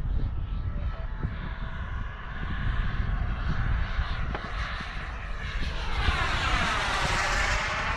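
Radio-control model airplane flying in on its landing approach, its propeller noise swelling as it passes close by about six seconds in. Wind rumbles on the microphone throughout.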